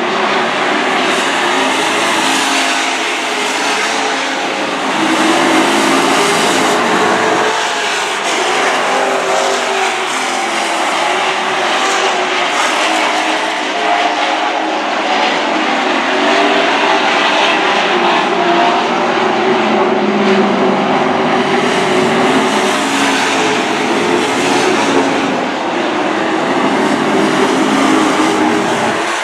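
A pack of Super Truck race trucks running at racing speed around a dirt oval, their engines loud and continuous, the engine pitch rising and falling as the trucks pass and lift for the corners.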